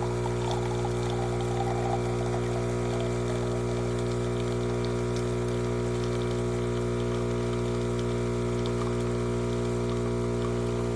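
Philips 4300 Series espresso machine's pump running with a steady hum, with liquid trickling and splashing over the first few seconds.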